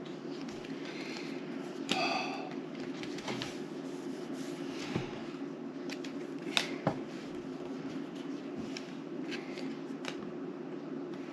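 Playing cards being handled on a table: scattered light clicks and rustles over a steady low hum, with a couple of sharper clicks about two-thirds of the way through.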